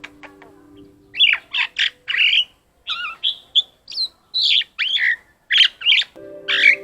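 Male vinous-breasted starling singing a varied song: a quick run of short whistles, gliding notes and harsh squawks, starting about a second in and going on to the end.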